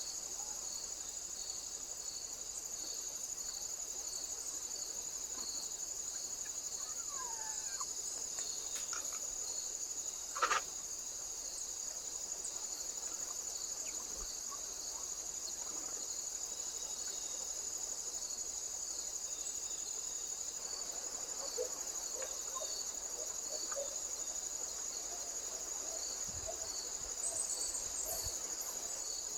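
Steady high-pitched insect trilling with a regular pulsing beat, like crickets or bush crickets singing in chorus. A short, sharp sound stands out about ten seconds in.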